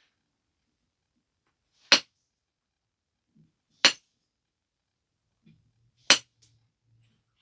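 Three sharp knapping strikes on the edge of a stone biface, about two seconds apart, as it is refined by percussion flaking.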